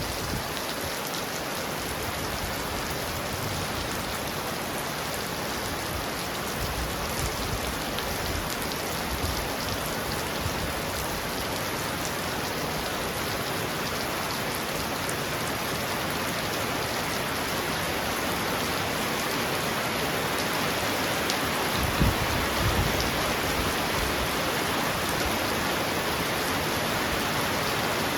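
Heavy rain falling steadily on a roof in a dense, even hiss that slowly grows a little louder, with a short low rumble about three quarters of the way through.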